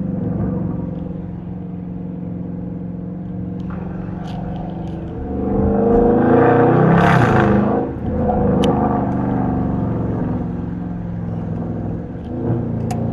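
Untuned, naturally aspirated Hemi V8 of a Dodge R/T, heard from the driver's seat. It runs steadily under way, then revs up hard in a rising roar for about two and a half seconds before dropping off suddenly about eight seconds in, and settles back to a steady run. A few small exhaust pops crackle through it.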